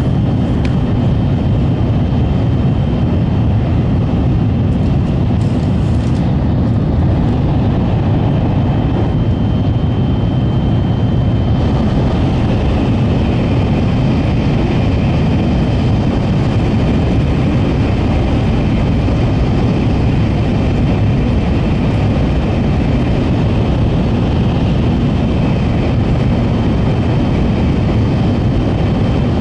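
Inside an N700-series Shinkansen travelling at speed: a steady, loud rumble of wheels, running gear and air rush, with a faint high whine. About twelve seconds in, the hiss gets brighter.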